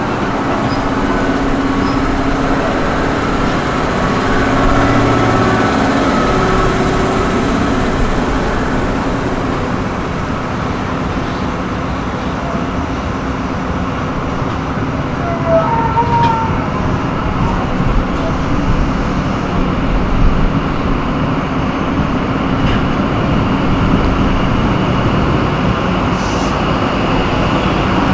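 XPT diesel train moving slowly past along a platform: steady engine drone and the rumble of the carriages rolling by, with a high whine that fades after about ten seconds and a couple of short hisses near the end.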